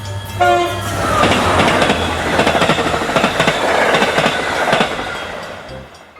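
Toy train sound effect: a short horn toot, then a long run of clattering clickety-clack train noise that fades out near the end.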